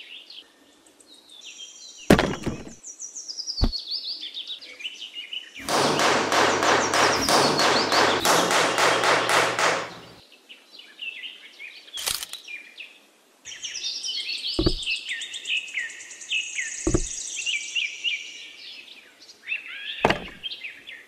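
Bird chirps and twitters, with single sharp wooden knocks from a small wooden hammer tapping stick posts into sand, about six in all. Midway there is a loud stretch of rough noise lasting about four seconds.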